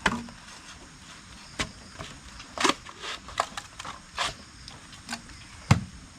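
Irregular sharp knocks and cracks, about seven scattered over a few seconds, over a low hiss.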